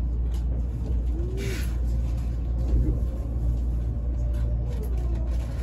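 E657 series electric train running, heard from inside the carriage: a steady low rumble with a faint whine that rises and falls a couple of times, and a brief hiss about a second and a half in.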